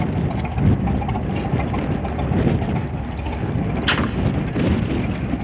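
Antique McCormick-Deering orchard tractor engine running steadily at a slow idle, with fine rapid ticking. A single sharp click sounds about four seconds in.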